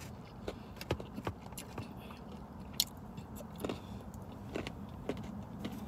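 Mouth sounds of someone chewing fried shrimp, with scattered soft clicks and a sharper click near the three-second mark, over a low steady hum inside a car.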